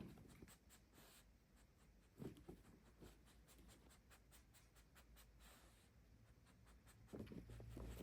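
Near silence with faint scratching and scattered light clicks, and soft low thumps about two seconds in and again near the end.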